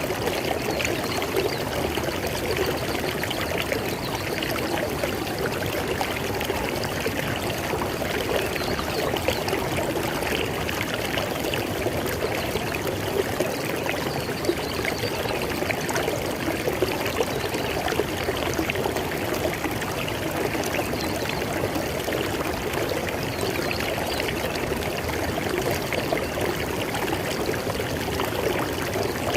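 River water flowing steadily, a continuous rush with fine splashing and trickling.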